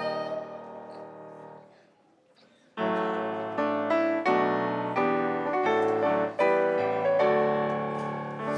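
Piano: a held chord dies away almost to silence, then about three seconds in the piano starts a new passage, striking a fresh chord roughly every two-thirds of a second.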